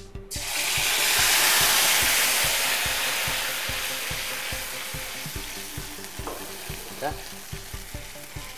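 Tomato purée poured into hot oil in an iron kadai, bursting into a loud sizzle at once, which then slowly dies down as it is stirred with a wooden spatula.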